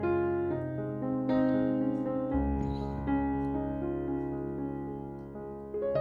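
Background piano music: slow notes and chords, each ringing on into the next.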